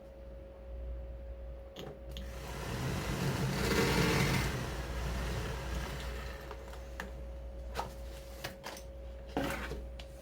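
Toyota Crown GXS12's original heater blower motor running with a steady whine and a low rumble, a noisy swell building and fading around the middle, and a few sharp clicks in the second half. The sound is the motor's age-worn abnormal noise.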